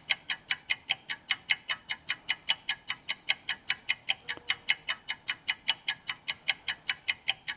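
Steady, even clicking, about five sharp ticks a second.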